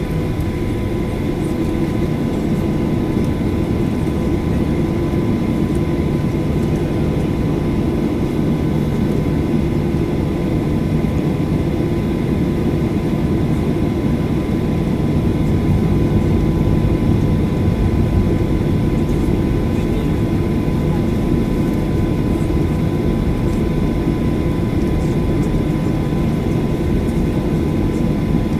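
Boeing 737-800's CFM56 jet engines running, heard from inside the passenger cabin as a steady, loud rumble with a faint steady whine on top.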